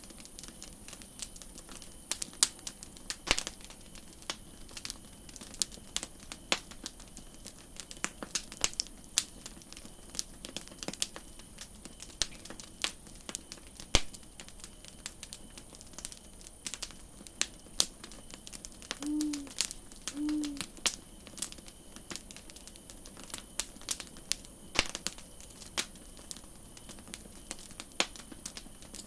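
Campfire crackling: irregular sharp pops and snaps over a faint steady hiss. Two short low tones a second or so apart sound about two-thirds of the way through.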